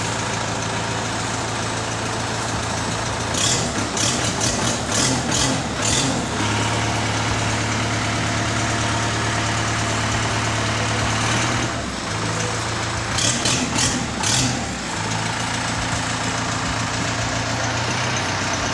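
Kubota M7040 tractor's 3.3-litre four-cylinder turbo diesel engine running at a steady idle, with two spells of uneven, louder noise with a high hiss, about four and thirteen seconds in.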